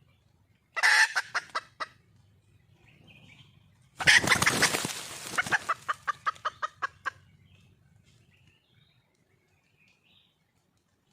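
Red junglefowl hen calling in two bouts of cackling, each a sharp opening note followed by a quick run of clucks that fades out. The second bout is longer and louder. This is the hen's call to attract a male.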